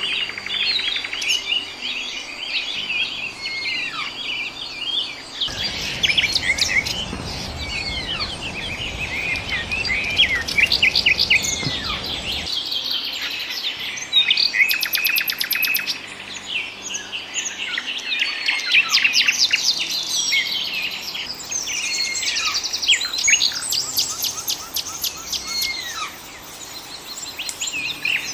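A chorus of many small birds chirping and calling over one another, with quick, rapidly repeated trills. From about five and a half to twelve seconds in, an even rushing noise sits under the birdsong.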